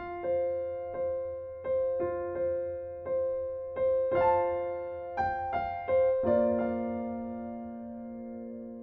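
Background piano music: a slow melody of single struck notes, then a chord held and left to fade away near the end.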